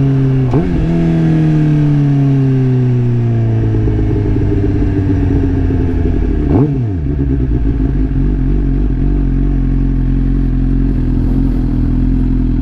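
Suzuki GSX-R 750 inline-four with an M4 full exhaust running, its engine note falling slowly, with a quick dip and rise in pitch about half a second in and again near the middle.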